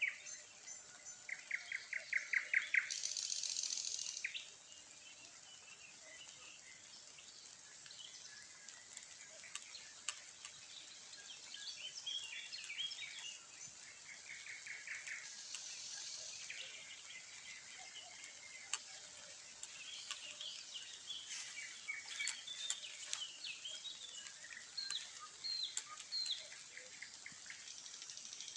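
Several small birds singing and chirping, with a fast trill near the start and a short hissing burst just after it. Light rain has just begun, with scattered sharp taps among the calls.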